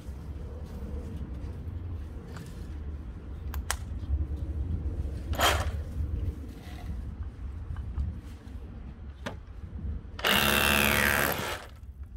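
Bosch Bulldog GBH18V-26D cordless SDS-plus rotary hammer hammer-drilling into a concrete slab: about ten seconds in it runs loudly for a little over a second, then stops. Before it, a few short knocks over a low steady rumble.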